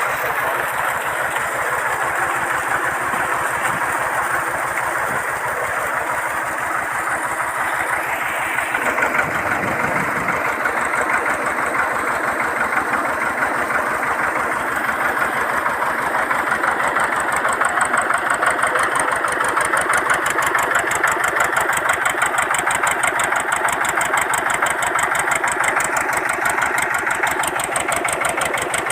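Tractor engine running steadily, driving a PTO water pump, with fast, even firing pulses. A brief deeper rumble comes about nine seconds in.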